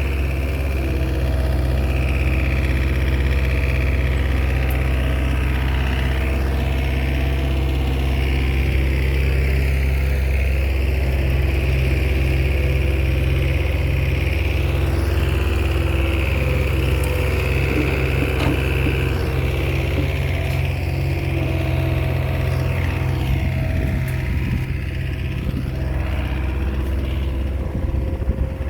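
Diesel engine of a small Komatsu bulldozer running steadily, with a higher overtone that comes and goes as it works.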